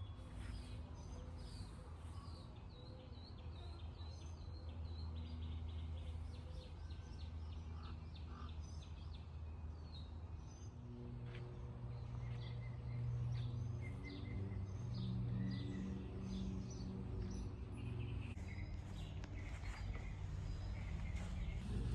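Small songbirds chirping and twittering, with a steady low hum underneath that shifts in pitch about halfway through.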